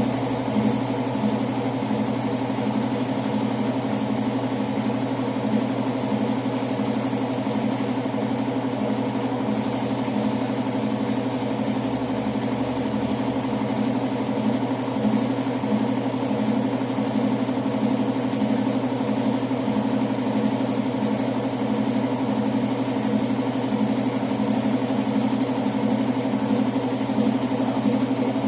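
A motor running steadily at constant speed, with a fast, even throb.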